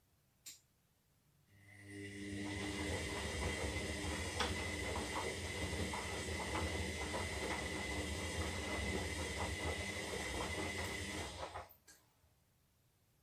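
Zanussi Lindo 300 washing machine mid-wash: a click, then the motor starts and turns the drum for about ten seconds with a steady hum and a steady high tone over sloshing and small knocks, then stops abruptly. This is one tumble of the wash phase.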